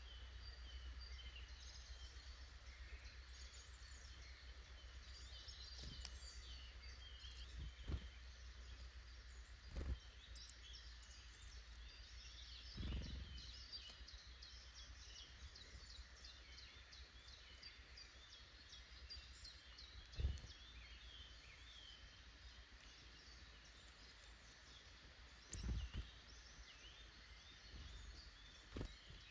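Faint chirps and calls of small woodland birds, many short notes overlapping throughout, over a low steady background hum. A few brief soft thumps stand out at intervals, the loudest about a third of the way in and near the end.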